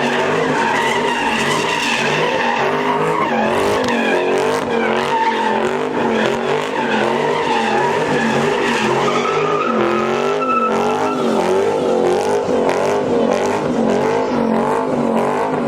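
A car doing donuts, its engine held at high revs while the tires squeal continuously. The pitch wavers up and down about once a second.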